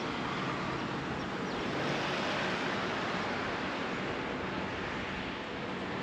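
Steady rushing noise of wind and road traffic while riding a bicycle along a road, swelling slightly about two seconds in.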